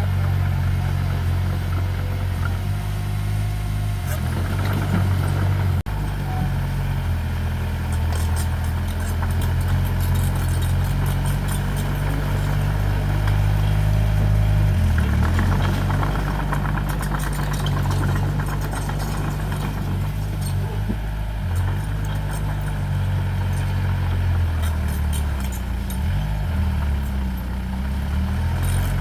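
Diesel engine of heavy earthmoving equipment running steadily, its pitch dipping and recovering a couple of times, with light metallic rattling over it.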